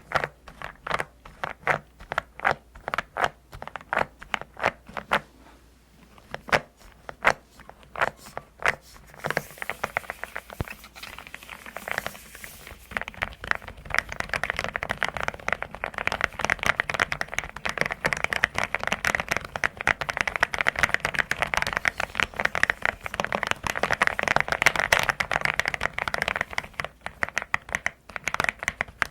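Custom mechanical keyboard keys being pressed: separate key strikes about two a second at first, a brief scratchy rustle near the middle, then fast continuous typing with a deep, clacky 'dogak dogak' key sound.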